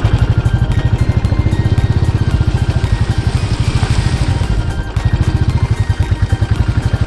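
Royal Enfield 500's single-cylinder engine running under way, an even, rapid exhaust beat. A brief rush of hiss rises over it a little past the middle.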